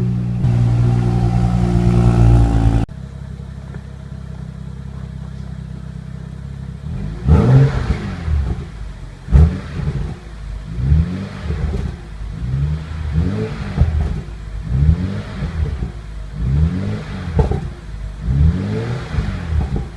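Music until a sudden cut about three seconds in, then a 2014 BMW 435i's 3.0-litre turbocharged straight-six on its stock exhaust, idling and then revved in repeated throttle blips, each rising and falling, about one every second and a half.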